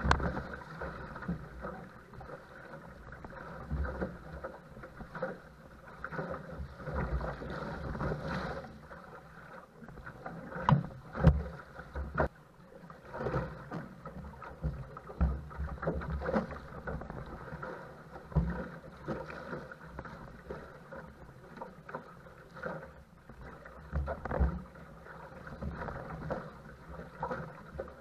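Wind-driven chop splashing and slapping against a paddle craft, with splashing paddle strokes and irregular thumps as the boat punches into oncoming waves.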